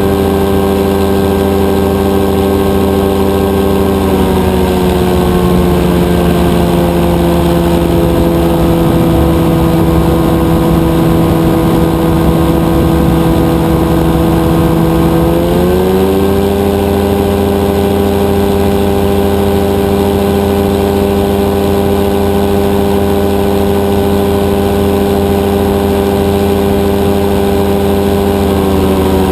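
Rotax 582 two-stroke twin engine of a powered parachute running in flight. Its note drops about four seconds in, holds lower for about ten seconds, then rises back and runs steady.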